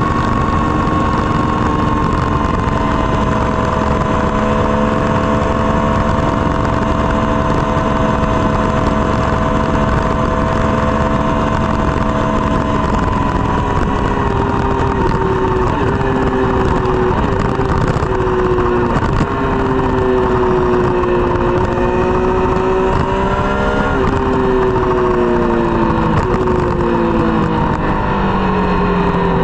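Triumph Street Triple's three-cylinder engine running through a Dominator GP exhaust, with a steady engine note over a constant noise. About halfway through the note begins to sag and swell gently with engine speed. It rises briefly and then drops away near the end.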